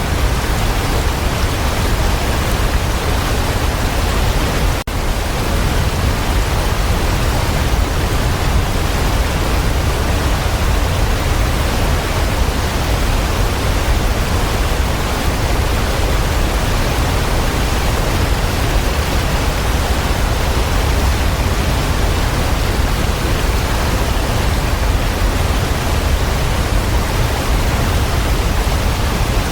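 Waterfall: a steady, loud rush of falling water, heaviest in the lows, with one brief dip about five seconds in.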